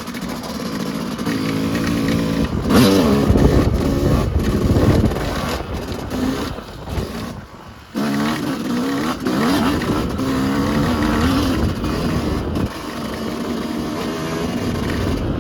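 Yamaha YZ250 two-stroke dirt bike engine being ridden, its pitch rising and falling as the throttle is worked through the gears. The throttle comes off about halfway through, then snaps back on sharply, with another easing off near the end.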